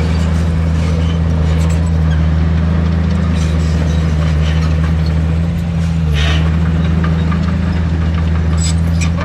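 Heavy diesel engine of a construction machine running steadily, with a brief dip in its note about five and a half seconds in and a few short clanks scattered over it.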